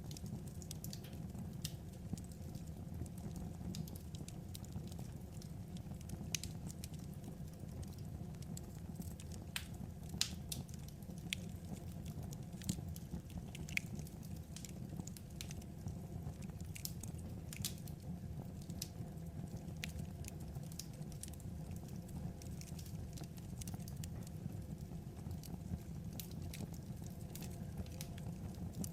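Wood fire crackling: irregular sharp pops and snaps, a few louder than the rest, over a steady low rumble of burning logs.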